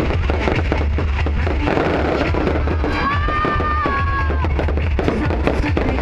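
Fireworks crackling, with rapid pops throughout over music. A steady high tone holds for about a second and a half, starting about three seconds in.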